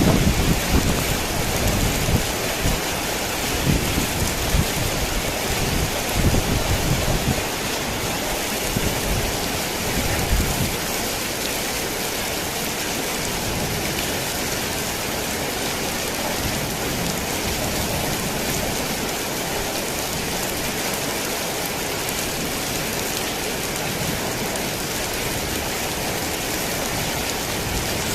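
Heavy rain falling on a tin roof, a steady hiss, with low rumbles of thunder through roughly the first ten seconds that then fade out, leaving the rain alone.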